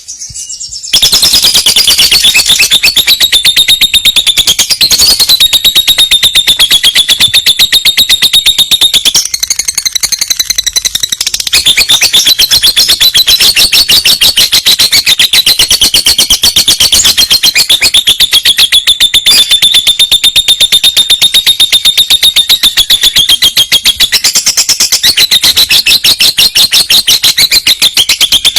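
Lovebird giving a long, unbroken high-pitched trill ('ngekek'), a rapid chatter of many notes a second, loud and continuous, with a short dip in strength about a third of the way through.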